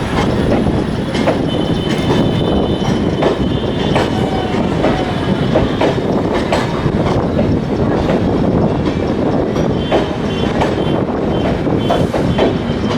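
Passenger train coaches rolling by, with continuous running noise, repeated wheel clicks over the rail joints and a faint high wheel squeal.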